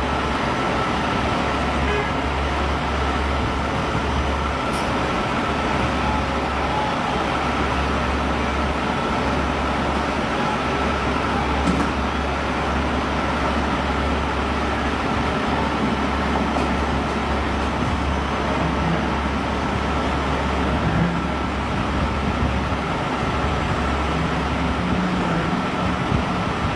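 A large vehicle's engine running steadily close by, a deep even rumble with street traffic noise around it.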